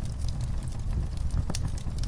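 Wood fire crackling in a fireplace: a low steady rumble of flames with scattered sharp pops and one louder crack about one and a half seconds in.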